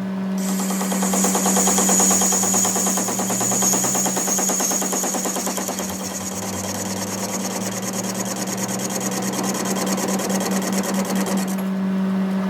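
A workshop power tool running with a fast, even rattle over a steady hum.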